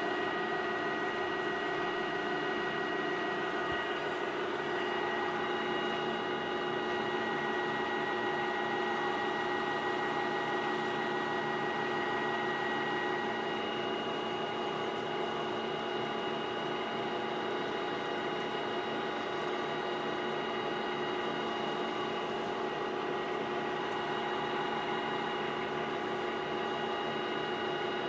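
A workshop machine running steadily, its motor giving a constant hum with several steady tones that shift slightly a few seconds in.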